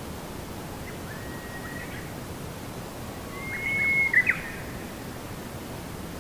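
Birds calling over a steady background hiss: a faint call about a second in, then a louder call about three and a half seconds in, a held whistle ending in two sharp notes.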